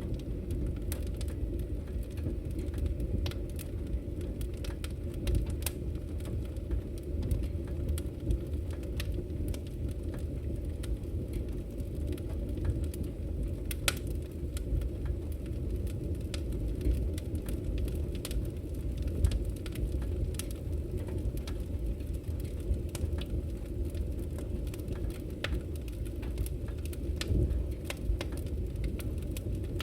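Firewood burning in a Victory Camp Taiga camping wood stove: a steady low rumble of the fire with many sharp, irregular crackles and pops, one louder pop about halfway through.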